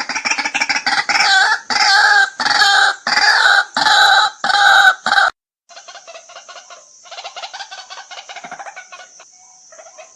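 White-breasted waterhen calling: rapid repeated notes build into loud, evenly spaced croaking calls less than a second apart. The calls cut off abruptly about five seconds in, and fainter fast chattering follows, over a steady high hiss.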